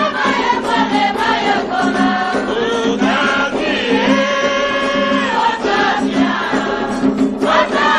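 Voices singing an Afro-Brazilian devotional chant in Yoruba to the orixá, with one note held for about a second and a half midway, over a low tone that pulses at an even rhythm.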